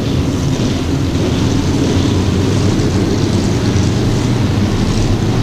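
A pack of IMCA stock cars' V8 engines running together at pace speed, a steady, unbroken sound of many engines at once.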